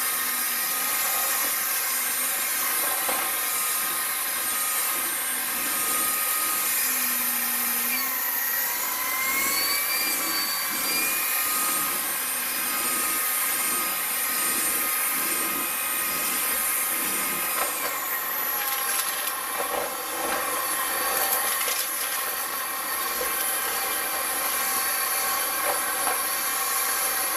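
BuTure VC70 cordless stick vacuum running, a steady high motor whine with several fixed tones. Its pitch dips and recovers about eight to eleven seconds in, and shifts again near eighteen seconds.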